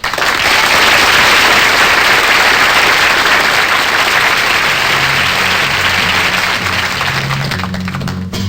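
Studio audience applauding. About five seconds in, a bass guitar starts a slow, repeating low line under the applause, which fades toward the end.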